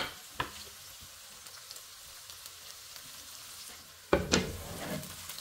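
Food sizzling in hot oil in a cooking pot: a steady frying hiss, with a sudden knock about four seconds in.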